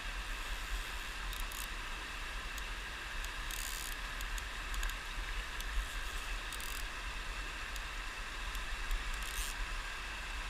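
Steady rush of flowing river water, with a few short rustling clicks.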